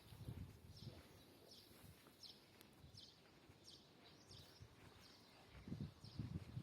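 Faint bird calling outdoors: short high chirps repeated about every two-thirds of a second. A few soft low thuds come near the start and again near the end.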